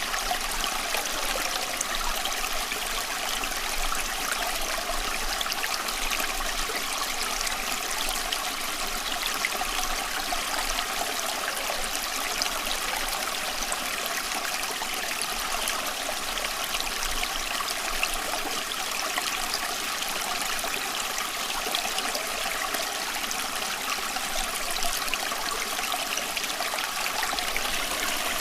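Steady running water, a stream or brook flowing and trickling without a break.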